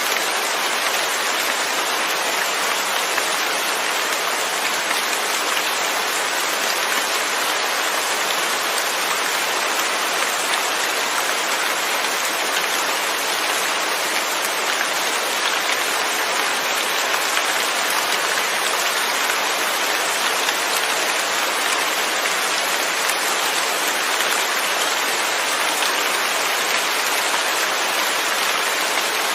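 Steady rain without thunder, a dense even patter of drops falling on a surface.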